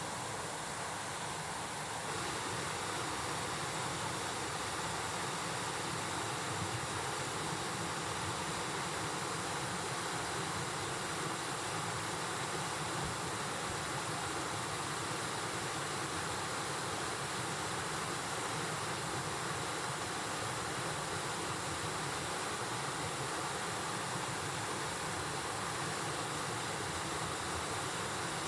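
Mountain stream rushing over rocks: a steady, even rush of flowing water, a little louder from about two seconds in.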